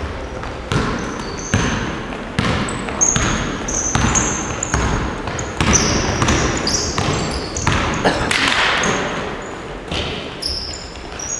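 Basketballs bouncing on a gym floor in an irregular scatter of thumps, mixed with short high squeaks of sneakers on the court.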